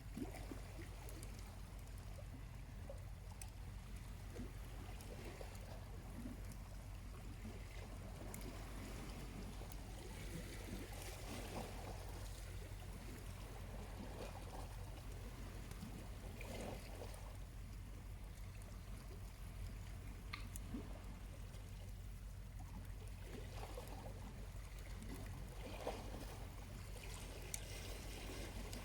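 Small waves lapping and washing gently on the shore, swelling every few seconds, with faint scattered crackles from a slowly burning charcoal campfire and a steady low hum underneath.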